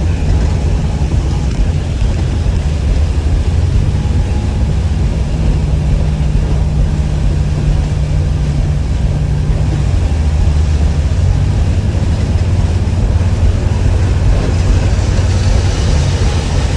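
Blue Bird All American school bus running on the road: a steady low engine drone with road noise, its pitch shifting a little about 4 seconds in and again about 10 seconds in.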